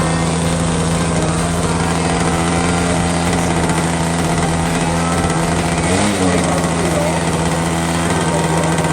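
OS MAX-55AX two-stroke glow (nitro) model airplane engine running steadily at high revs with a fixed pitch, wavering briefly about six seconds in.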